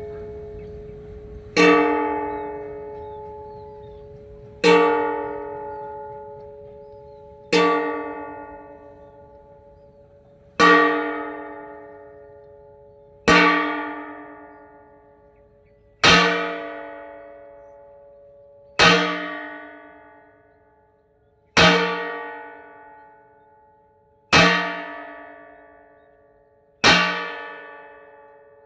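Metal cooking pot struck ten times, about once every three seconds; each strike rings out with several tones and dies away slowly.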